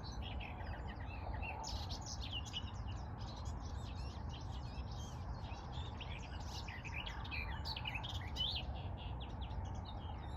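Garden warbler singing a long, rapid, continuous warbling song.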